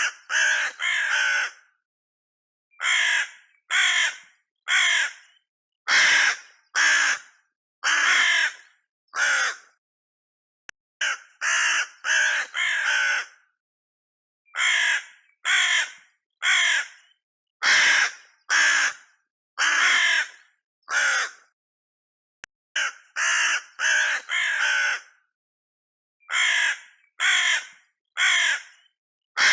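Harsh animal calls, each about half a second long, repeated in runs of three or four with silent gaps between the runs.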